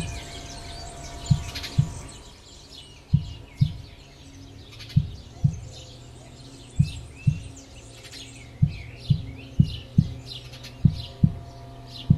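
Sparrow chicks calling from the nest in short, high, rapid chirps, over loud, low, heartbeat-like double thumps that repeat roughly every two seconds and come a little faster near the end.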